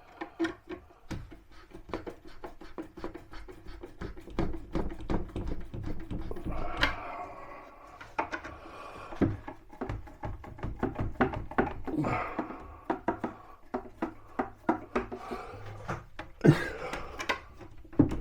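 Irregular wooden knocks, taps and scrapes of a kitchen wall cabinet being handled and shifted into place, with a few louder thuds.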